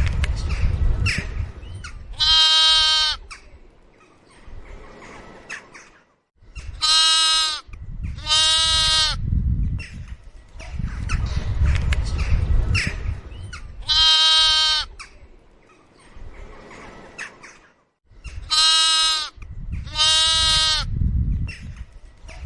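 A goat bleating six times, in short, high, nasal calls, some single and some in quick pairs. A low rumbling noise fills the gaps between the calls.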